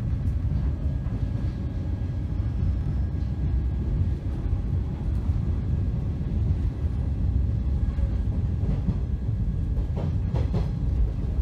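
Inside the passenger cabin of a KuHa 455 car in a 413-series train departing a station: a steady low rumble of the train rolling on the rails, with a few clicks from rail joints about ten seconds in.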